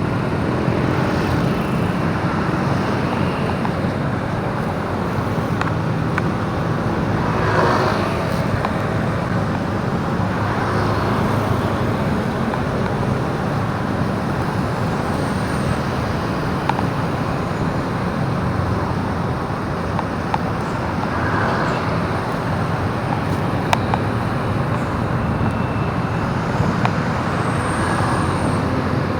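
Steady engine and road noise of a motorbike ride through traffic, with passing vehicles.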